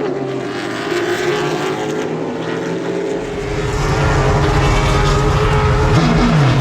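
Race car engines running on the track, several engine notes at once. A louder, deeper engine comes in about halfway through, and near the end one engine's pitch drops steeply as a car goes by.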